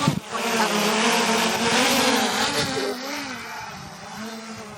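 Small camera drone's propellers spinning up at take-off, rising in pitch, then a steady buzzing whine that grows fainter after about three seconds as it climbs away.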